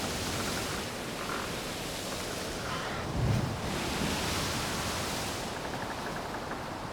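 Sea surf washing onto the shore, a steady rushing noise that swells about halfway through.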